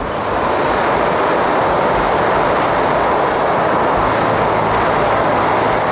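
A train running past on the tracks close by: a loud, steady rush of wheel-on-rail noise that swells up over the first half-second and then holds even.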